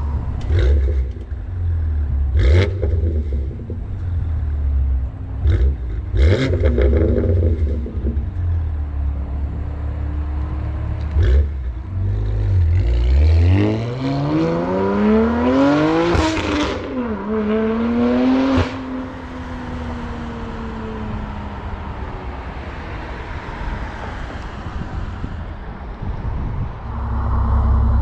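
BMW M2 Competition's twin-turbo inline-six through an equal-length midpipe and axle-back exhaust: a deep, heavy rumble with a few sharp cracks, then about halfway a hard acceleration, the engine note climbing steeply with breaks at the upshifts. It then settles into a steadier, quieter drone before the heavy rumble returns near the end.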